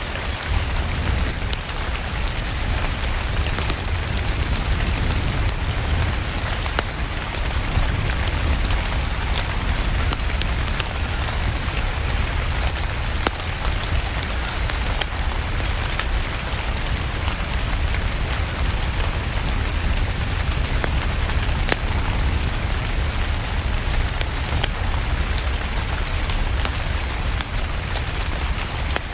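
Steady rain mixed with a crackling wood fire: an even wash of rain with a deep rumble underneath, and sharp crackles scattered at random through it.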